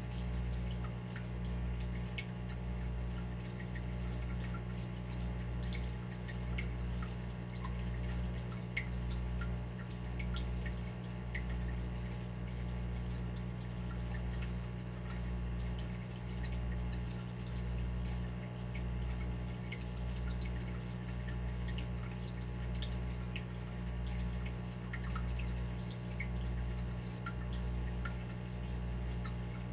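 Water dripping and trickling in scattered small drops, over a steady low hum that pulses about once a second.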